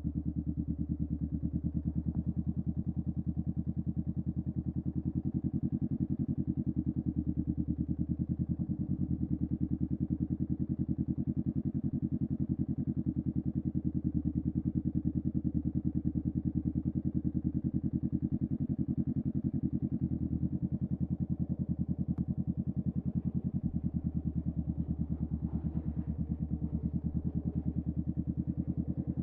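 Honda Rebel 500's parallel-twin engine through a Vance and Hines Upsweep exhaust, running steadily at low, unchanging revs with a fast, even exhaust pulse.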